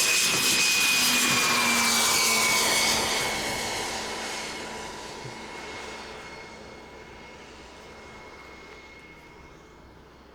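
Large radio-controlled model jet's turbine engines passing close by: a sudden loud rush of jet noise with a high whine that holds for about three seconds, then fades away as the whine drops slightly in pitch.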